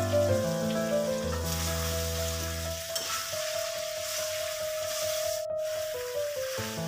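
Buffalo liver sizzling and frying in a wok as it is stirred, under background music with held notes and a bass line. The sound briefly cuts out about five and a half seconds in.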